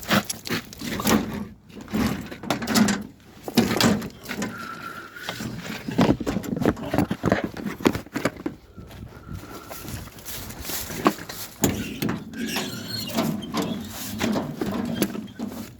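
Tools and equipment being handled and rummaged through: irregular knocks, clatters and rattles, with two short squeaks near the middle.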